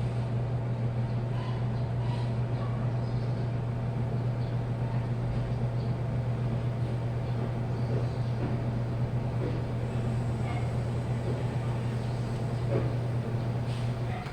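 Washing machine running with a steady low hum that does not rise or fall, then stops abruptly just before the end.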